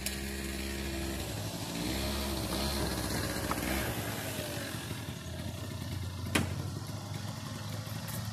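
Motor scooter engine running while riding, its pitch rising and falling between about two and four seconds in. A sharp knock comes about six seconds in.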